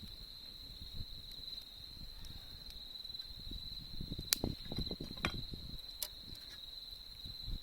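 Crickets trilling steadily at one high pitch, over the low crackle of a wood campfire. Two sharp pops from the fire, about four and six seconds in.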